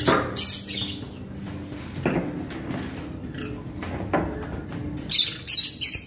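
Small aviary birds chirping in short high bursts, loudest just after the start and again in the last second, over a steady low hum.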